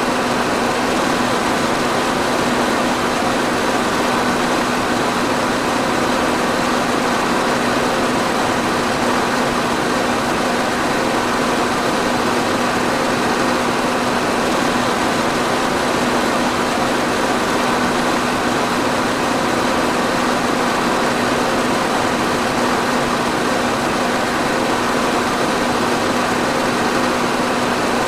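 Electric fan running steadily: an even whooshing rush of air with a constant low motor hum underneath.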